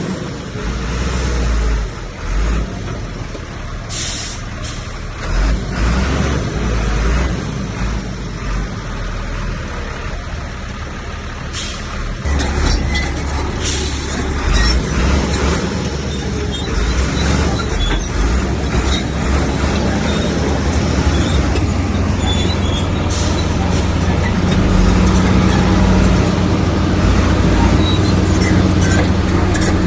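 Heavy diesel earth-moving machine working, its engine running steadily under load with occasional short clanks and scrapes. About twelve seconds in, the engine grows louder and more even.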